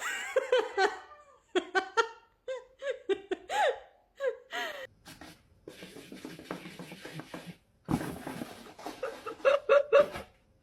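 A person laughing in short high-pitched bursts, with breathy gasps between them.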